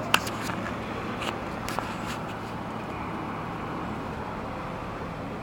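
Steady outdoor background noise of distant road traffic, with a few short sharp ticks, the loudest just after the start.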